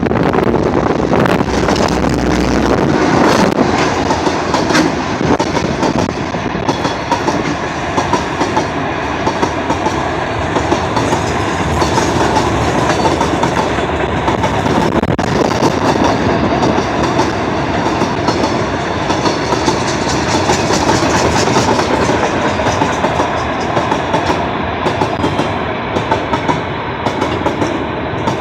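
Freight train of container spine wagons and covered wagons rolling past close by, a steady loud rumble with repeated clickety-clack of the wheels over the rail joints.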